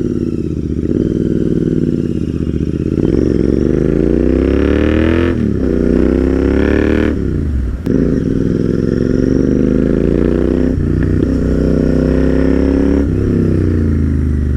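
Royal Enfield Interceptor 650's parallel-twin engine, breathing through an aftermarket exhaust, pulling away and accelerating through the gears. The pitch climbs in each gear and drops back at each of about four upshifts.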